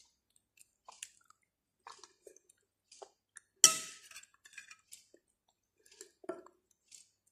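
Close-miked chewing of soft boiled pumpkin, with small wet mouth clicks. About three and a half seconds in, a metal spoon clinks sharply against the plate, the loudest sound.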